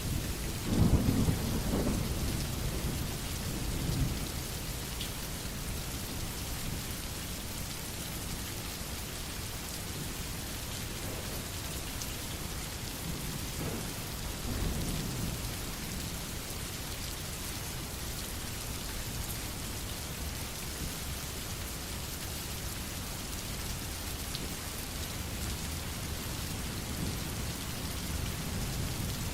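Steady rain falling, with low rolls of thunder: the loudest about a second in, and softer ones around four and fifteen seconds.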